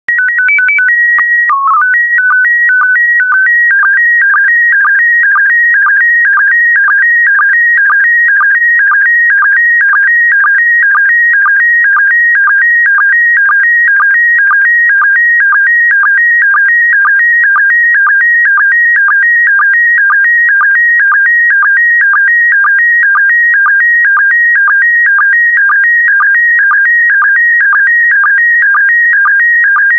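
Slow-scan TV (SSTV) image transmission in PD120 mode. It opens with a short run of stepped beeps as the header, then settles into a fast warbling tone pattern that repeats about twice a second, one repeat per scan line of the picture being sent.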